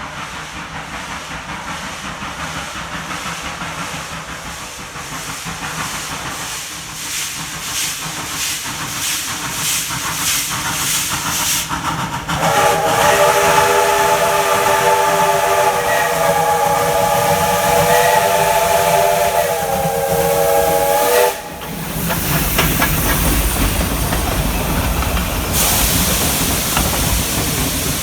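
Steam locomotive working, its exhaust chuffing regularly and quickening, then one long whistle blast of about eight seconds sounding several tones at once. After a brief break, a loud steady steam hiss.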